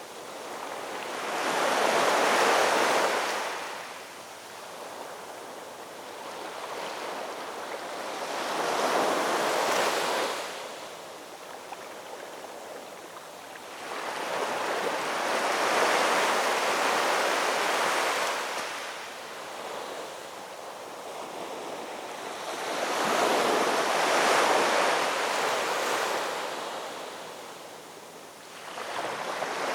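Ocean waves breaking and washing in: four surges about seven seconds apart, each swelling and then fading, with a steady hiss of surf between them.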